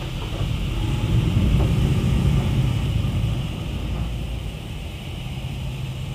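Automatic car wash machinery running: a steady low rumble with a hiss of spraying water or air, swelling for a couple of seconds about a second in, then easing.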